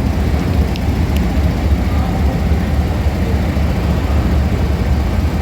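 A train's diesel locomotive engine running with a steady low rumble, with a couple of faint clicks about a second in.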